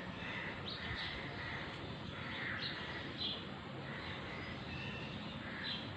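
Birds calling: short chirps and calls every half second to a second, over a steady hiss of background noise.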